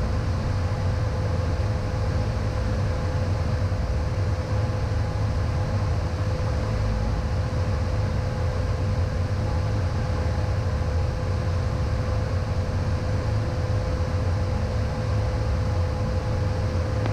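Steady cockpit noise of a Beechcraft Premier I business jet in flight: a low drone of airflow and engines, with a thin steady hum above it.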